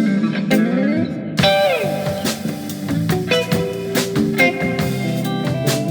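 Live improvised jazz fusion: a guitar plays sliding, bending notes over a bass line, with drum hits coming in about halfway through.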